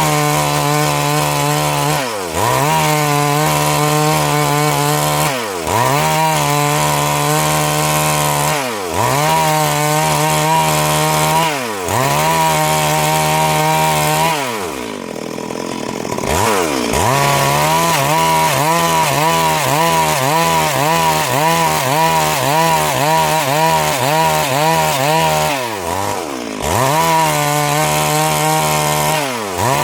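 Stihl MS 382 two-stroke chainsaw running at high revs while cutting through a log. Its pitch dips and climbs back every two or three seconds, and about halfway through the revs drop away for a couple of seconds before the saw is opened up again.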